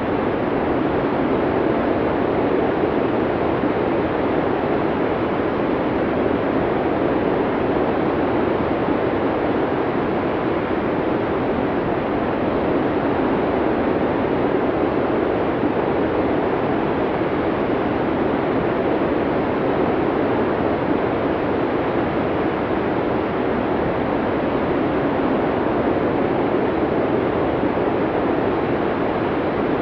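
Blizzard wind blowing steadily: a dense, even rushing, fullest in the lower middle, that swells and eases only slightly with no sharp gusts.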